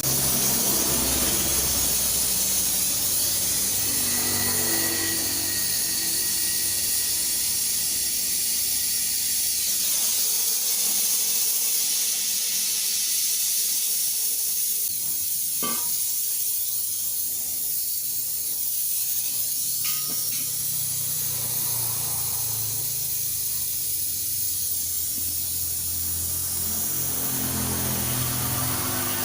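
Steady hiss of pressurised gas rushing out of a refrigerator's refrigerant line during work on a clogged capillary tube, with a couple of short clicks in the middle.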